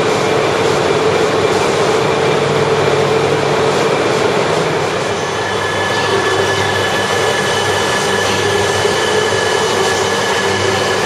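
Shinkansen train running along the platform of an underground station: a steady, loud rumble, with a thin whine joining about halfway through.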